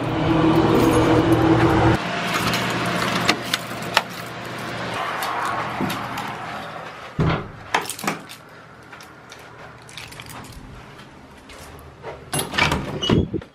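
A car engine running, which cuts off about two seconds in. It is followed by rustling and a few sharp clicks and knocks, like keys jangling and a car door being handled.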